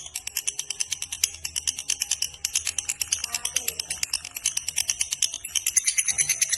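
Lovebird giving its long 'ngekek' chatter: a fast, unbroken string of sharp, high-pitched chirps, many a second, growing a little denser and louder near the end.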